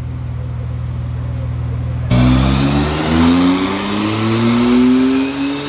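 A steady engine drone cuts off abruptly about two seconds in. A car engine then pulls hard under full load, its pitch climbing steadily without a shift, with a high whine rising above it, as in a dyno pull in a single gear.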